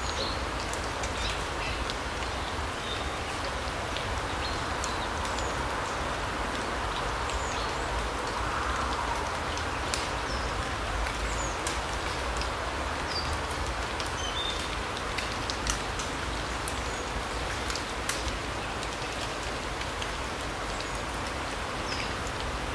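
Larch-forest ambience: a steady soft rushing, with scattered light ticks and a few short, high bird chirps dotted through.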